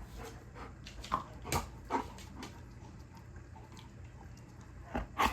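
A pet dog making a few short whines during a fetch game, with two sharp knocks near the end.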